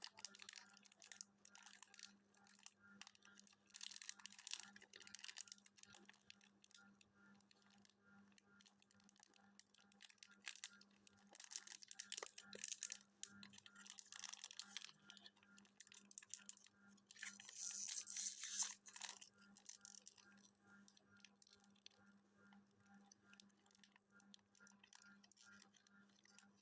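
Faint scattered crackling and rustling, like paper or a wrapper being handled, with a louder rustle about seventeen seconds in, over a faint steady low hum.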